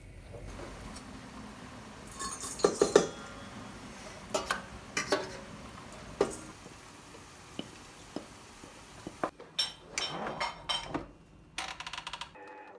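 Dishes and cutlery clinking and knocking in scattered bursts of sharp clicks, the loudest cluster about two to three seconds in.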